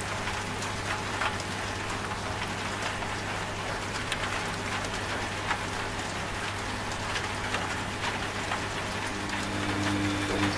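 Steady rain falling, with scattered drop ticks, over the steady low hum of a washing machine running; a second, higher tone from the machine comes in near the end.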